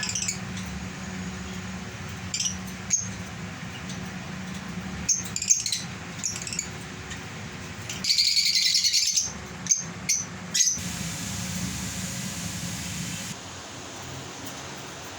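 Lovebirds giving short, high chirps every second or two, with a denser run of chattering calls lasting about a second around eight seconds in, over a steady low hum.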